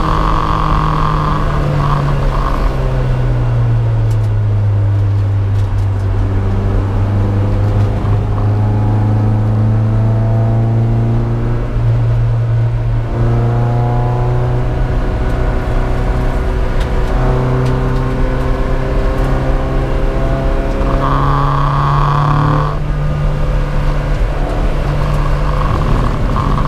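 Toyota MR2 race car's engine heard from inside its stripped, roll-caged cabin, running hard at racing speed. The engine note climbs slowly through each gear and drops at each upshift, several times.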